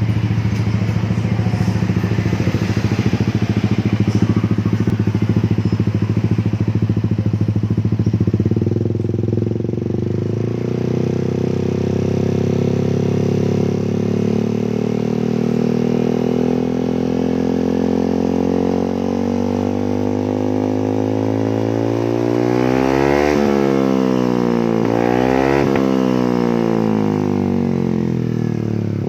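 Yamaha Aerox 155 VVA scooter's single-cylinder engine running through an aftermarket full-system racing exhaust. It idles steadily, revs climb slowly over the middle stretch, then the throttle is blipped sharply twice near the end and the revs fall back.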